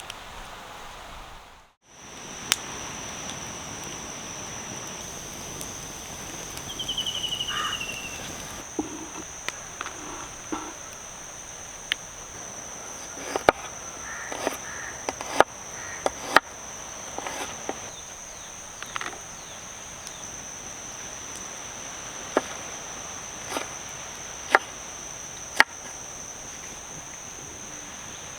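Outdoor ambience: a steady high-pitched insect drone, with a single bird call sliding down in pitch a few seconds in. From about a third of the way through come scattered sharp knocks and taps, some in quick pairs.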